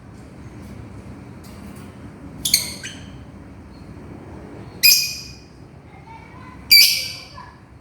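Lovebird giving three short, shrill calls about two seconds apart, the first about two and a half seconds in, with a few faint chirps between: contact calls to its companion.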